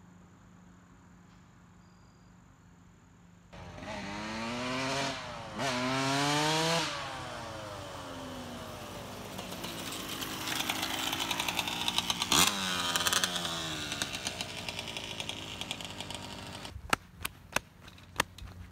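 Yamaha YZ dirt bike engine revving hard twice, then running with its pitch rising and falling as it is ridden, with one quick high rev in the middle, before fading away. A run of sharp clicks follows near the end.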